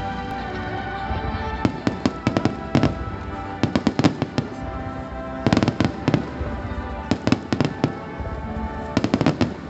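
Aerial fireworks bursting in quick volleys: about five clusters of rapid crackling bangs a second or so apart. Music with held tones plays underneath.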